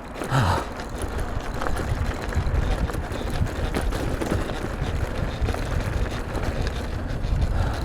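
Mountain bike ridden fast over a rough dirt trail: a constant rumble from the tyres and wind on the microphone, with quick rattles and knocks as the bike bounces over bumps.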